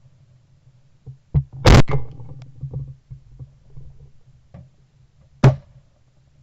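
A few sharp knocks: a lighter one about a second in, then two loud ones about 1.7 s and 5.5 s in, over a faint low hum.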